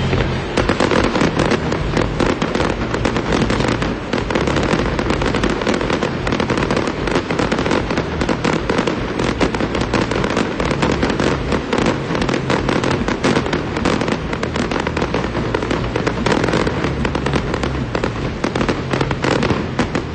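Large aerial fireworks display: a continuous, dense barrage of bangs and crackling bursts with no pause.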